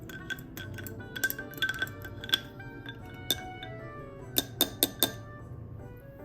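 A spoon clinking against a cup as a soy latte is stirred: light ringing clinks in two clusters, over background music.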